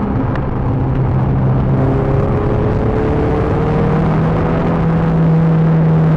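Peugeot 306 GTi-6's 2.0-litre four-cylinder engine pulling under load on track, heard from inside the car over tyre and road noise, its note climbing slowly as the car gains speed.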